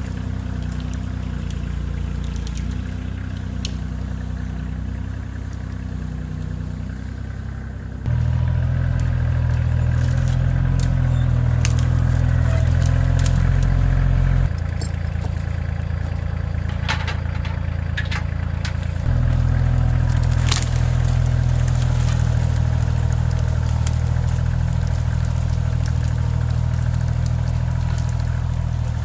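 Kioti CK2610 compact tractor's three-cylinder diesel engine running under load, its note stepping louder about eight seconds in, dropping back, and rising again around twenty seconds. Scattered sharp cracks and snaps sound over the engine in the middle of the stretch.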